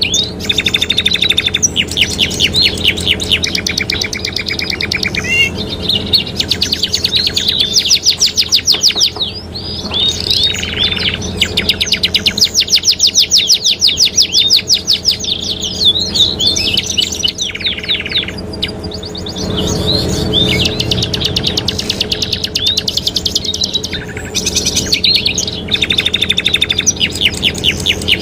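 Domestic canaries singing a long run of fast trills and rolls, with rising and falling whistled notes between them and only brief pauses. A steady low hum runs underneath.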